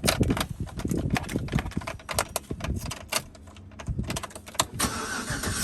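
Keys clicking and jangling in the ignition of a 2007 Chevrolet Silverado: many irregular sharp clicks. Near the end they give way to a steadier whir as the key is turned to start the truck.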